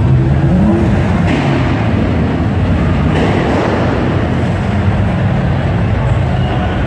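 Lowered Toyota 86's boxer four-cylinder engine running as the car rolls slowly past, a low boxer rumble that rises briefly in pitch about half a second in. The rumble sounds in an enclosed concrete car park.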